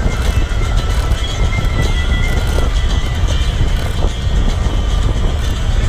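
Heavy wind buffeting a body-mounted action-camera microphone while riding, a loud steady low rumble with road noise under it and a few faint thin tones above.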